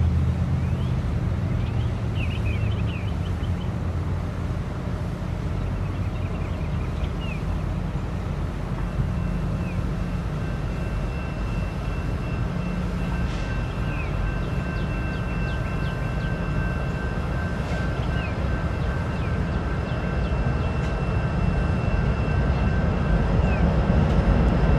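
Approaching CSX freight train's diesel locomotives: a steady low rumble that grows louder near the end, with a faint high whine joining about nine seconds in.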